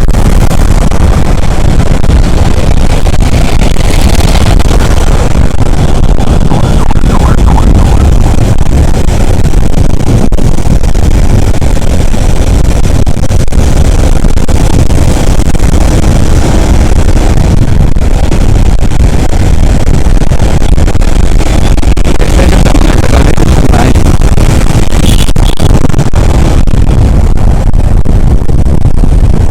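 Steady, loud riding noise from a motorcycle on the move in city traffic: a dense low rumble of engine and road noise with no break.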